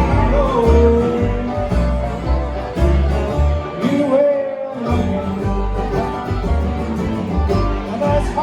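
Bluegrass band playing: plucked acoustic guitar over a pulsing bass line with a sung melody. The bass drops out briefly about four seconds in.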